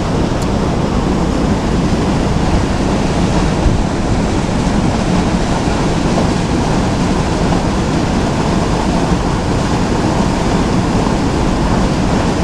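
Steady rushing of river water, a constant full noise with no breaks or distinct events.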